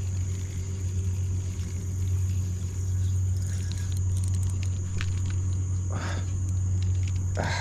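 A steady low engine rumble, with a few faint ticks in the middle.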